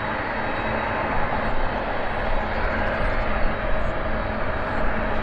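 Jet airliner engines running, a steady loud roar, from a Boeing 767 passing at the airport.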